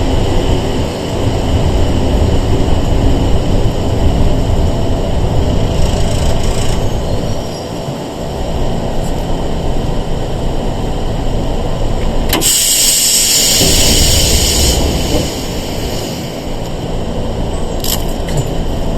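Interior sound of a Sangi Railway 101 series electric train: a steady low rumble from the carriage. About twelve seconds in, a high hiss runs for about two seconds.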